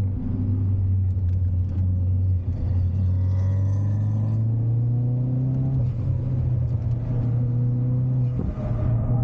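Ford Focus RS's turbocharged 2.3-litre four-cylinder engine heard from inside the cabin under way on track, its note slowly rising for several seconds as the car accelerates, then holding steady, with a brief dip near the end.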